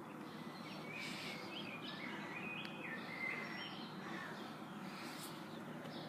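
A songbird singing a run of short, high whistled notes over steady faint outdoor background noise.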